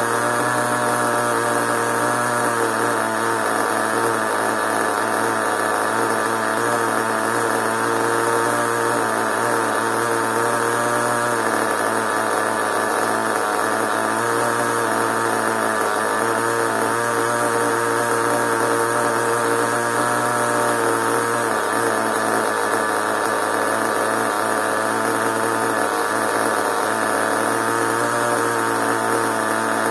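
Small nitro engine of a radio-controlled monster truck running steadily, its pitch shifting slightly about a third and two thirds of the way through.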